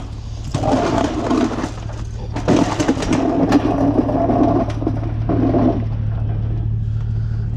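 A vehicle engine idling with a steady low hum, with intermittent muffled, irregular sounds over it in several stretches.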